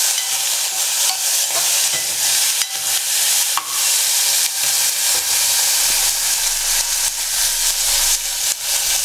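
Chopped tomatoes, green chillies and curry leaves sizzling steadily in hot oil in a pot, stirred with a metal spoon that gives a few light clicks against the pan.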